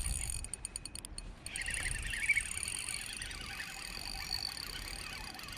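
A chorus of frogs calling steadily, with a burst of croaks about two seconds in. A low rumble sounds at the start.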